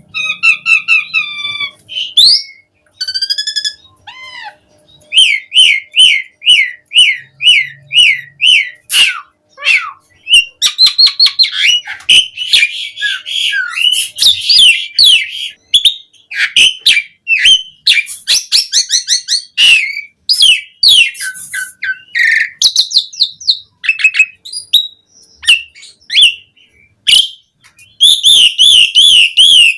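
Asian pied starling singing a varied song of clear whistled glides, a run of repeated rising notes at about two a second, and dense harsh chattering. Near the end it breaks into a fast, repeated wavering phrase.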